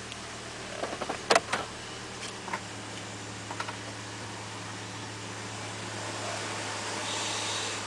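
Steady low hum in a pickup truck cab, with several sharp clicks of dashboard buttons and switches being pressed. The loudest clicks come about a second and a half in, and a hiss swells near the end.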